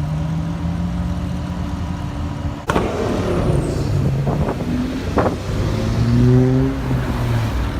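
A car engine running steadily, then about three seconds in a sudden loud burst as a car is driven away hard, its engine note rising in steps as it revs up, with two short sharp cracks in the middle.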